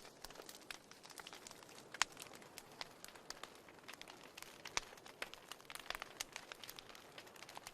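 Wood fire burning in a fireplace: scattered sharp crackles and pops over a soft hiss, the loudest pop about two seconds in.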